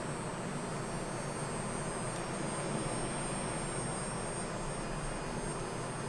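Ibling sonic facial cleansing brush running with a steady electric hum and a thin high whine.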